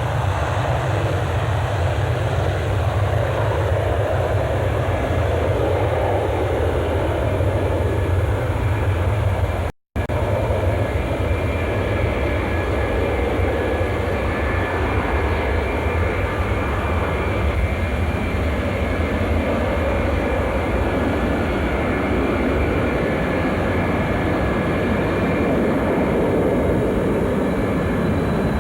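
Jet aircraft engines running with a steady rumble and a faint high whine, broken by a split-second gap of silence about ten seconds in.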